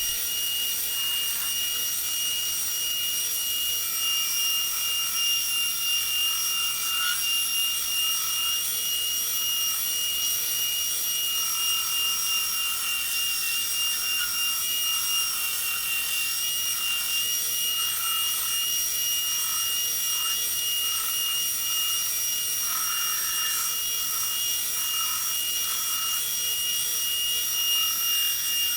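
A 2x72 belt grinder running steadily with a constant high whine while a knife handle is rough-shaped on the belt. The grinding sound wavers as the work is pressed on and eased off.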